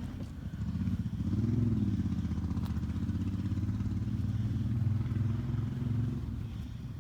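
A motor vehicle's engine running nearby. It swells about a second in, rises and falls in pitch briefly, holds steady, and fades out about six seconds in.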